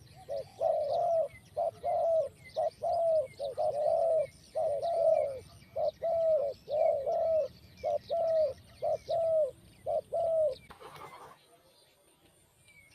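Doves cooing in a fast run of short, arched coos, about two a second, which stops about eleven seconds in with a brief rustling burst. Small birds chirp faintly higher up.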